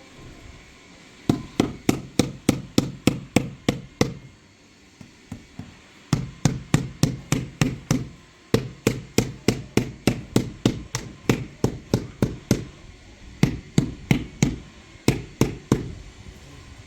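Hammer blows struck in quick even runs of about four a second, with short pauses between the runs.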